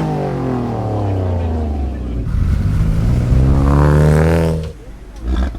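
A car engine being revved hard. The revs fall away over the first two seconds, then climb again in a second rev that is held briefly and cut off sharply near the end.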